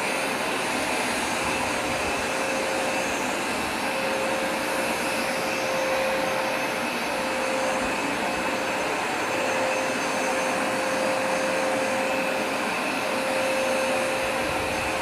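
Hoover Smartwash Pet carpet cleaner running steadily on carpet, its suction motor giving a constant noise with a steady hum.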